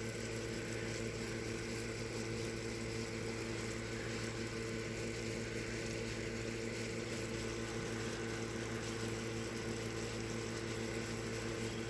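Steady low machine hum with several constant tones, unchanging throughout.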